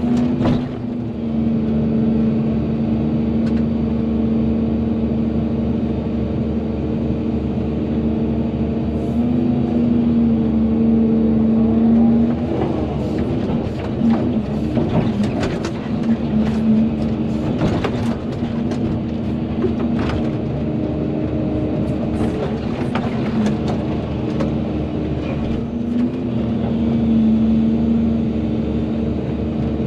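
Volvo EC220DL tracked excavator's diesel engine running steadily while it digs. The engine note dips and recovers several times in the second half, with scattered clicks and knocks.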